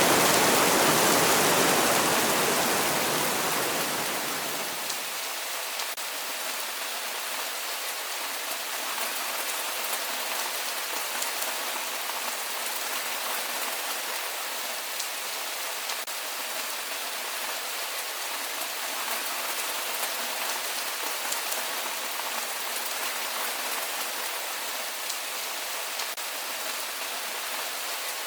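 Heavy rain falling steadily, an even hiss with faint scattered drop ticks. Over the first four seconds or so, a louder, deeper rushing sound fades out beneath it.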